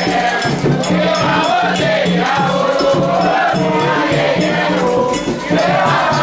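A group singing a Candomblé chant to percussion, with a shaken rattle marking a steady beat.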